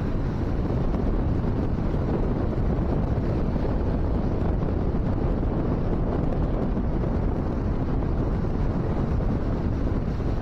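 Steady wind blowing across the microphone, with ocean surf underneath.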